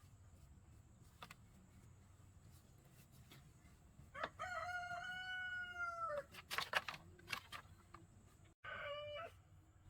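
A rooster crowing: one long call of about two seconds with a dip in pitch at its close, a few sharp clicks after it, and a short second call near the end.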